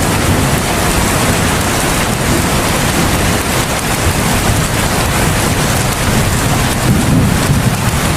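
Heavy rain pouring steadily in an even hiss, with a low rumble underneath that swells briefly about seven seconds in.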